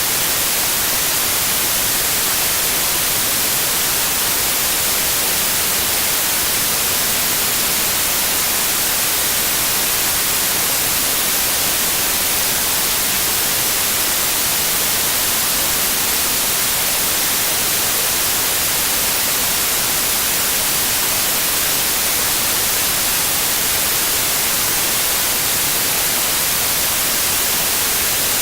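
Steady synthetic white noise: an even, unbroken hiss, brightest in the highs.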